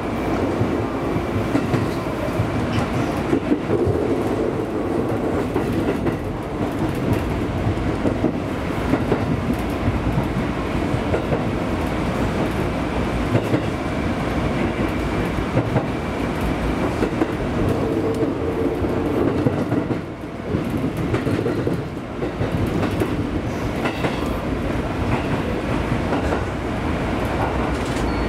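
JR East 205-series electric train running, heard from inside the front car: a steady rumble of wheels on rail with clickety-clack over rail joints and points, dipping briefly twice near the end as the train runs into the station.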